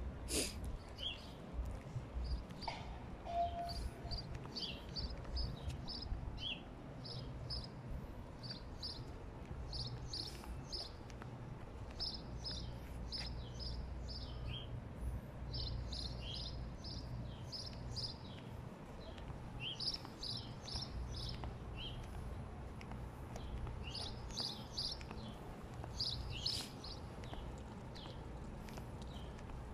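Small birds chirping in quick runs of short, high notes, repeated all through, over a steady low rumble of outdoor background noise.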